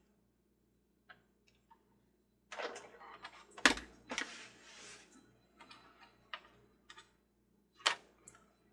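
Screws being driven into the plastic frame of a Mr. Christmas World's Fair Ferris Wheel: scattered small clicks and scraping of a screwdriver and plastic parts, with two sharp knocks, one about a third of the way in and one near the end.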